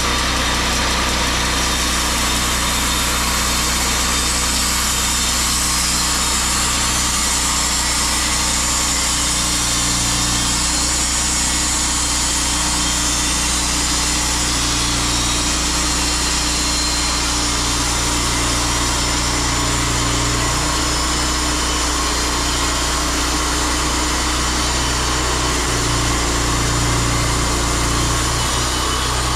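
Portable sawmill's small gas engine running at a steady speed, holding an even pitch throughout.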